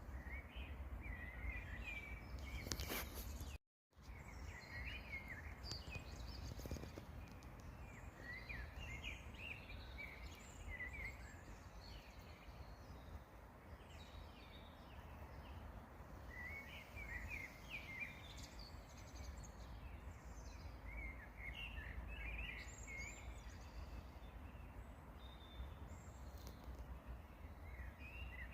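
Small songbirds singing in short chirping phrases, heard in scattered bursts over a faint, steady low rumble. The sound drops out completely for a moment about four seconds in.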